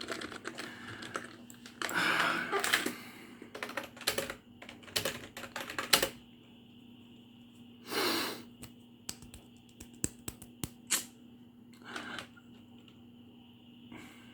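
Computer keyboard keys tapped in irregular clicks, sometimes in quick runs and sometimes singly with short pauses. A brief rushing noise comes about two seconds in and again about eight seconds in.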